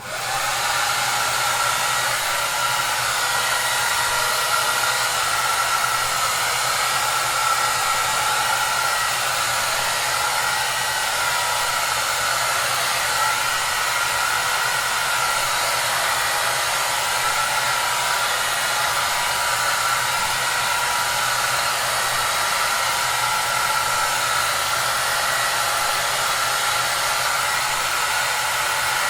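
Hair dryer running steadily: a constant even rush of air with a low motor hum underneath.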